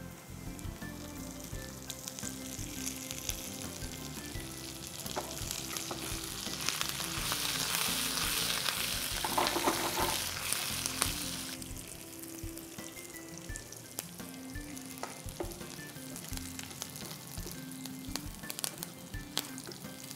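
Tempering of curry leaves, dried red chillies and golden-fried onion sizzling in hot oil in a non-stick frying pan, stirred with a spatula. The sizzle swells to its loudest around the middle, then drops back suddenly.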